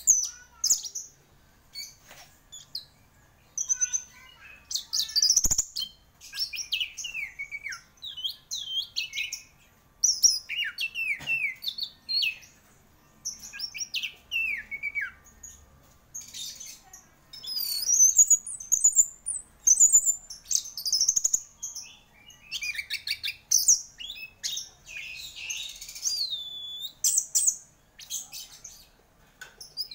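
Orange-headed thrush singing a long, varied song in quick bursts of phrases: many falling whistles and high chirps, broken by short pauses.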